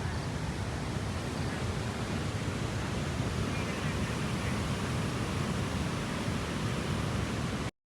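Steady rushing of creek water, a continuous even hiss, cut off abruptly by a moment of total silence near the end.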